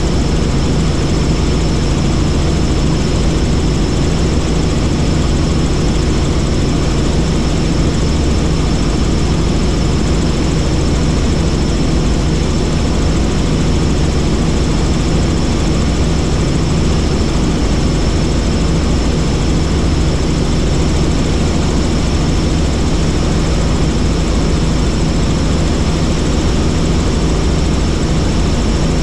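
Helicopter in flight: steady, loud rotor and engine noise, with a thin steady high whine above it.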